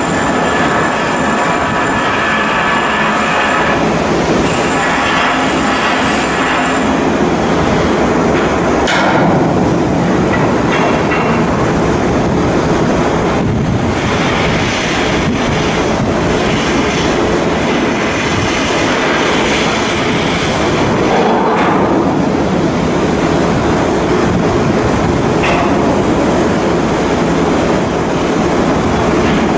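Steady loud machinery noise of shipyard steelwork, with a high whine in places.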